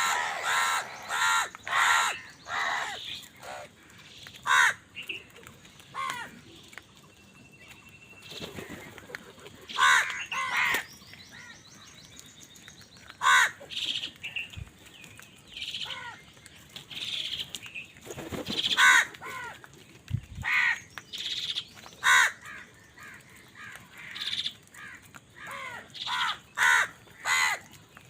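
Crows cawing repeatedly: short, harsh calls in clusters with brief lulls between, several coming close together near the end.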